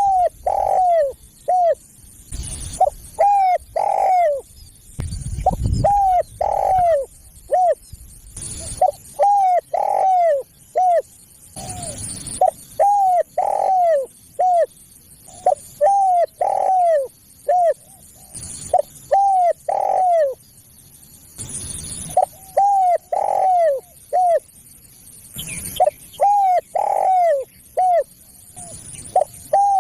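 Spotted dove (tekukur) cooing over and over in short phrases of about three notes, each note sliding down in pitch. The phrases come every two to three seconds, as a lure call for wild doves. Brief hissing bursts fall between some phrases.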